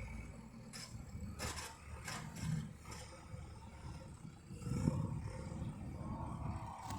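Tractor engine running with a low rumble that swells twice, with a few faint clicks on top.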